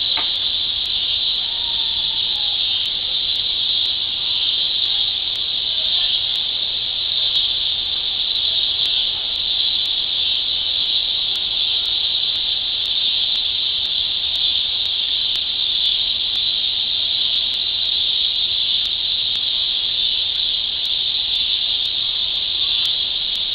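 Chorus of cicadas buzzing in a loud, steady, high-pitched drone.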